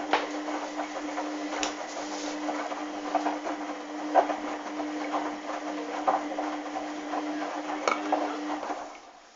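Hoover washing machine's motor turning the drum with a steady hum, with irregular clicks and knocks from the wash tumbling inside. The motor stops abruptly near the end as the drum pauses.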